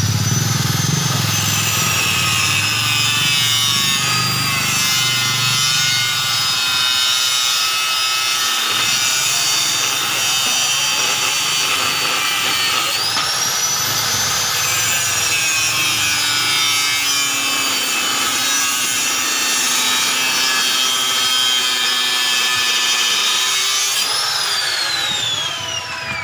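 A high-speed power tool cutting or grinding, its high whine sagging slowly as it works. The whine jumps back up about halfway through, and near the end it glides steadily down as the tool winds down.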